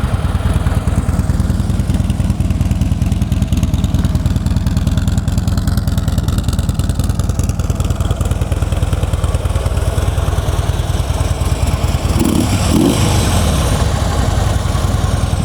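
2014 Harley-Davidson Ultra Limited's 103-cubic-inch V-twin idling steadily with a rapid low pulse, quiet through its factory stock exhaust.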